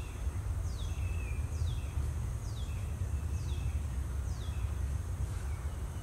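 A bird repeating a short, clear downslurred whistle about once a second, six times or so, over a steady low rumble.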